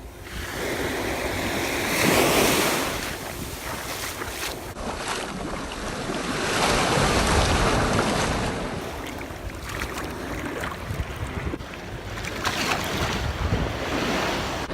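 Sea waves washing onto a beach, surging and receding about three times, with wind buffeting the microphone as a low rumble.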